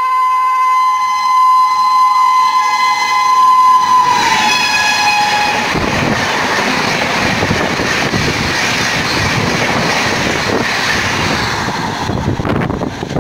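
An Indian Railways Shatabdi Express passing at high speed: the locomotive's horn sounds one long steady blast that drops in pitch as the locomotive goes by about four seconds in. Then comes the rush and rattle of the LHB coaches running past until the last coach goes by near the end.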